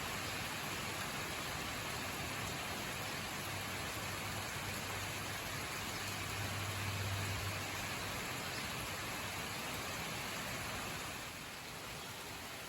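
Steady rain falling, an even hiss. A low hum swells and fades around the middle, and the rain sound drops slightly in level near the end.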